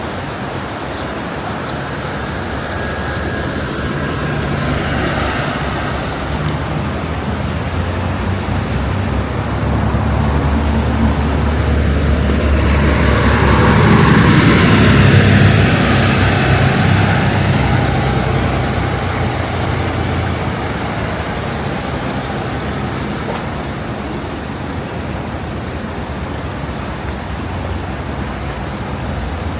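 A motor vehicle driving past on the valley road, its engine and tyre noise building to a peak about halfway through, then fading away.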